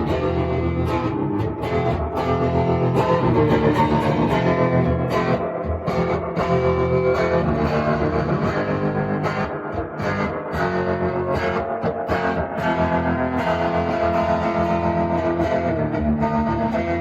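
Guitar music: a melody of held, changing notes over a steady low bass line.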